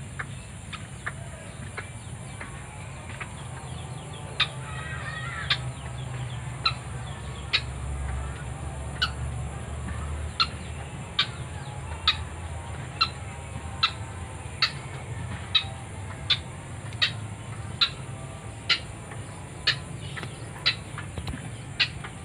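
A white-breasted waterhen calling: a short, sharp note repeated steadily a little more than once a second, starting a few seconds in and keeping up a monotonous rhythm.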